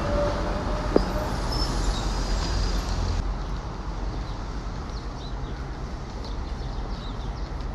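City street traffic: vehicles running steadily with a low rumble, and one sharp click about a second in.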